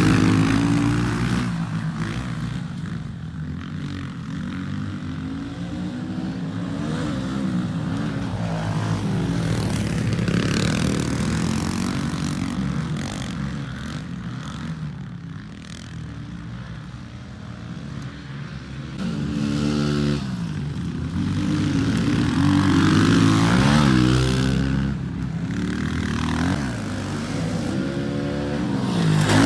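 Pit bike engine revving as it is ridden hard around a dirt track, its pitch climbing and dropping again and again with the throttle and gear changes. It eases off about halfway through, then picks up again.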